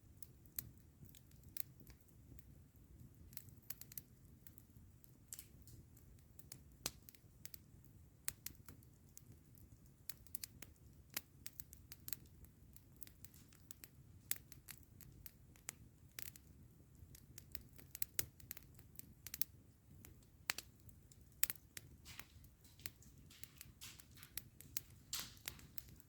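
Wood campfire crackling, with sharp pops and snaps coming at irregular intervals over a low steady rumble.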